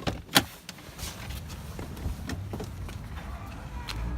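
Footsteps: a string of irregular light knocks and scuffs every few tenths of a second, the sharpest about half a second in, over a faint low rumble.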